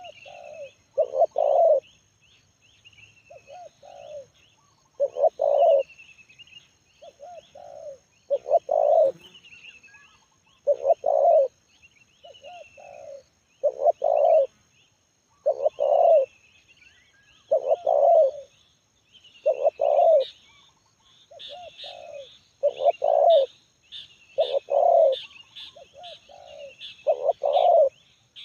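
Spotted dove (tekukur) cooing its repeated song phrase, one phrase every two seconds or so, a voice rated medium and loud with a single-'kuk' ending. Smaller birds chirp higher up throughout, busier near the end.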